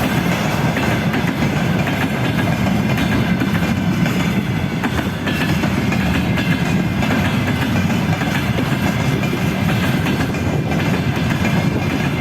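Freight train hauled by a VL10U electric locomotive rolling past: a steady loud rumble of steel wheels on rail, with quick clicks over the rail joints.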